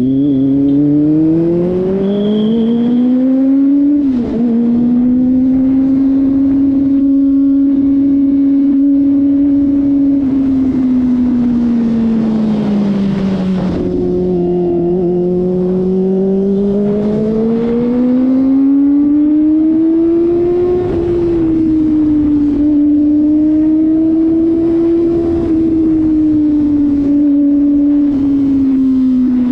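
Kawasaki ZX-25RR's four-cylinder engine pulling under way. Its pitch climbs, breaks briefly at a shift about four seconds in, holds steady, then falls and rises again with the throttle.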